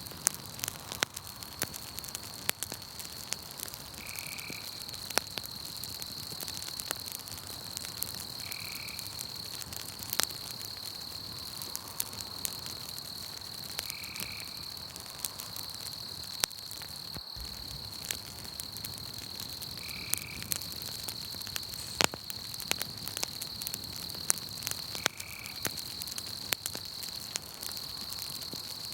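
Campfire crackling, with frequent sharp pops, over a steady high insect trill at night. A short call repeats every four to six seconds. The sound cuts out very briefly once, a little past halfway.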